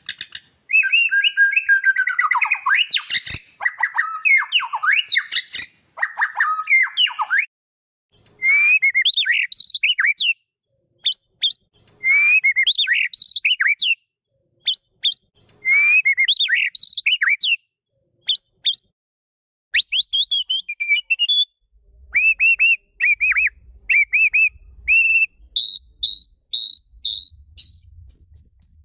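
A songbird singing loud, varied whistled phrases: a dense, jumbled phrase for the first several seconds, then a rising whistled phrase repeated about every two seconds, then runs of short quick notes that step higher toward the end.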